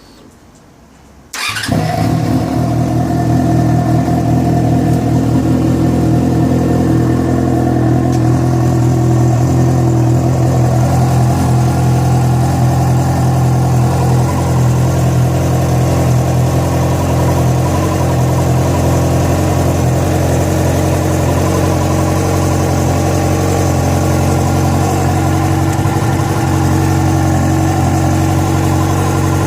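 Yamaha FZ6 motorcycle's inline-four engine starting about a second and a half in and then running at a steady idle, with the strange engine noise that appeared after riding about 70 km on two cylinders because of a failed ignition coil connector.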